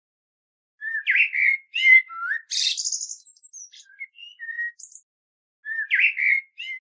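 A bird chirping: a quick string of short whistled chirps and squeaks, with a short pause before a last few chirps near the end.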